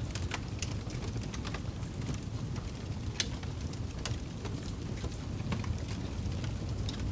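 Campfire burning, with irregular sharp pops and crackles from the wood over a steady low rush of flames.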